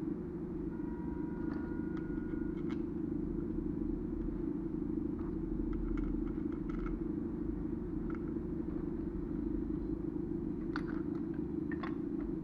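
A steady low mechanical hum, like a running motor or idling engine, with scattered light clicks and taps throughout.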